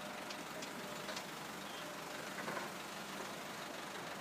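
Heavy diesel truck engine idling steadily, with a few light clicks in the first second.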